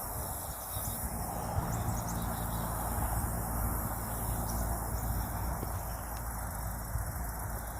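Woodland outdoor ambience: a steady low rumble with a faint hum, and a few short, faint high chirps about two seconds in.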